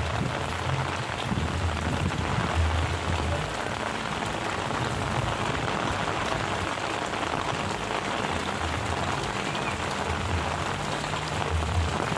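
Heavy rain falling steadily, a dense even hiss, with intermittent low rumbles coming and going underneath.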